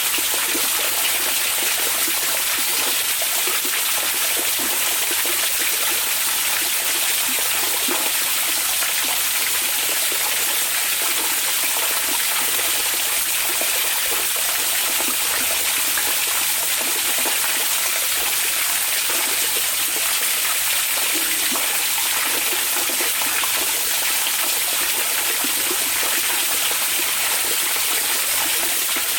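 Hot spring water flowing steadily: an even, unbroken rush of running water with no pauses or splashes standing out.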